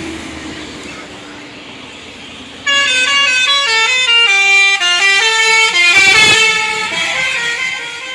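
A vehicle passes and fades, then about three seconds in a bus's musical multi-tone horn (the Indonesian 'telolet' type) plays a loud tune of quick stepped notes.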